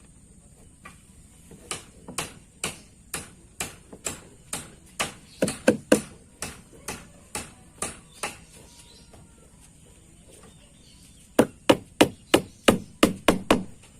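Hammer driving nails, likely through the plastic drum into the wooden keel: steady blows about two a second, then after a pause a quicker run of blows near the end.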